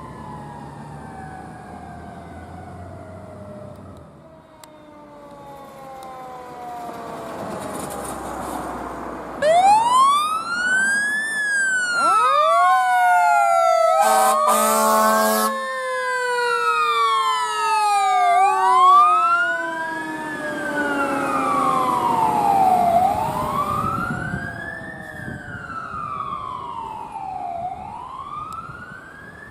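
Fire apparatus responding with sirens: a mechanical siren tone slowly winding down, then an electronic wail siren sweeping up and down every two to three seconds, with a second slowly falling siren tone under it. About fourteen seconds in, a horn blasts for about a second and a half.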